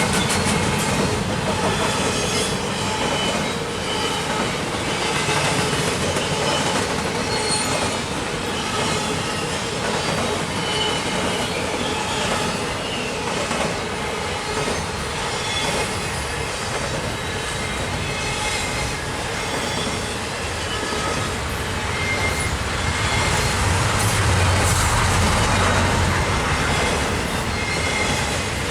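CN intermodal double-stack freight train rolling past steadily, its container cars' wheels making a continuous rumble with brief high squeals now and then. The low rumble swells somewhat near the end.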